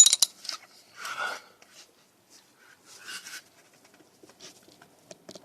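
3/8 ratchet and socket extension handled in a spark plug well: a sharp metal clink at the start, then a few soft scrapes and light taps as the tool is worked on a tight spark plug.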